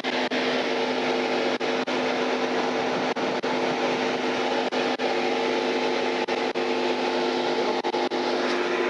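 A steady mechanical hum with a few constant droning tones, briefly cutting out many times.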